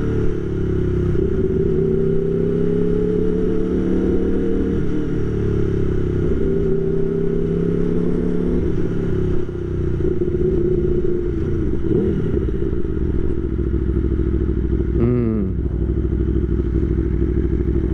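Aprilia Tuono V4 1100 Factory's V4 engine running at low, slowly wavering revs as the bike is ridden, heard through a microphone inside the rider's helmet. The engine briefly drops off about halfway through, then picks up again.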